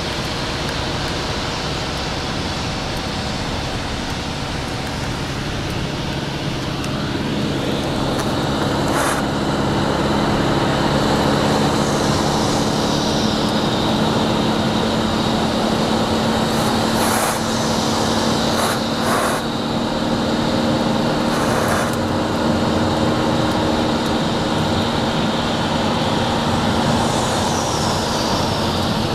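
Wind and road noise inside the cabin of a 2011 Fiat Doblò at speed, steady under a low engine hum and growing louder about 8 s in. With the windows closed, this is the wind noise the owner complains is leaking into the cabin.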